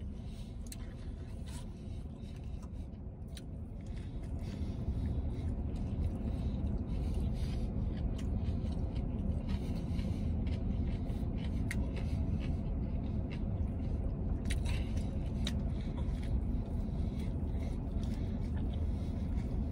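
A man chewing a lettuce-filled vegan Caesar wrap, with many small crunches and clicks, over a steady low vehicle rumble that grows louder about five seconds in.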